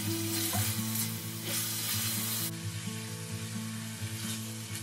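Chicken livers and sliced onion sizzling in a stainless steel frying pan as they are stirred with a spatula, over steady background music.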